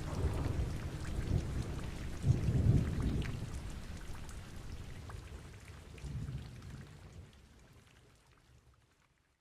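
Rain falling steadily with low rumbles of thunder, the heaviest about two and a half seconds in and another about six seconds in, the whole storm fading away to silence near the end.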